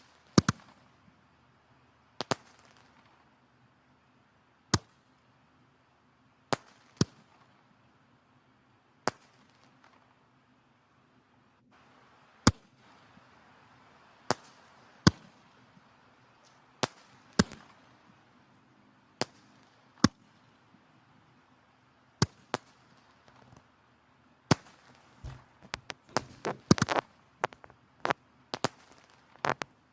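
Firewood burning in a fireplace: sharp crackles and pops at irregular intervals over a soft hiss of flame, with a quick flurry of pops near the end.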